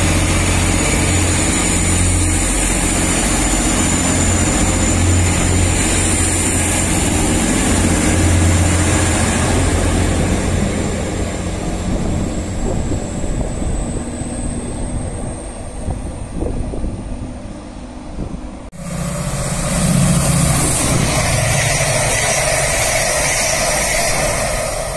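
Class 185 diesel multiple units at a station: a steady low diesel engine drone with a high whine that slowly rises in pitch, fading away over several seconds. About three-quarters of the way through, an abrupt cut brings a louder sound of a train passing close beside the platform.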